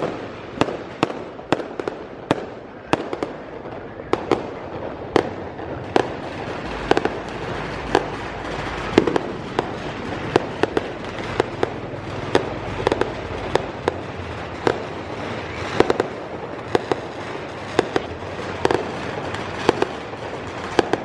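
Fireworks going off continuously: a steady string of sharp bangs, about one or two a second, over a constant crackling hiss.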